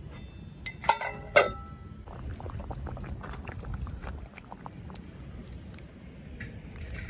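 Two ringing clinks of metal cookware about a second in, then steady bubbling and crackling of food cooking over the fire.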